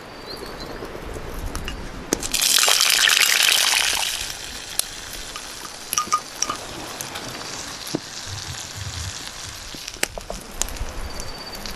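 A rush of liquid, like gushing or pouring, lasting about a second and a half, followed by scattered light clicks and clinks over a steady faint hiss.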